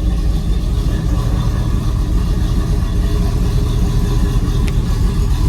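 V8 car engine running steadily under way, a deep, even rumble.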